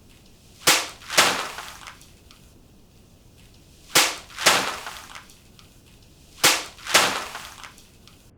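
Katana sword cuts, three in all. Each is a sharp crack followed about half a second later by a second, longer noise that dies away.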